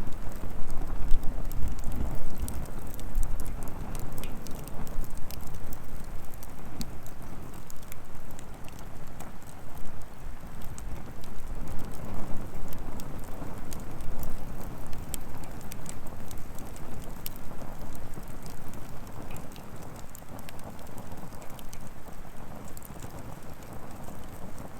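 Wood fire burning, crackling with many sharp, irregular pops over a low rumble that is strongest in the first few seconds.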